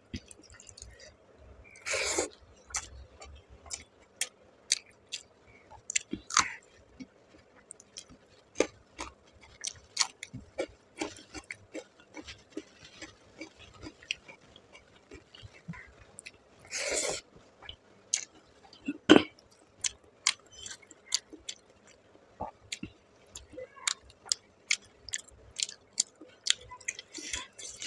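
Close-miked eating sounds: chewing of rice and fish curry, mouth clicks and smacks, and fingers squishing rice on a steel plate, with a couple of louder half-second noises and one sharp click.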